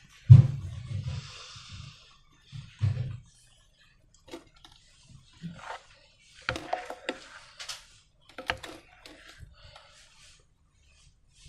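Hands working slime and balloons: a sharp thump near the start followed by a short hiss, then scattered sticky taps, clicks and squelches.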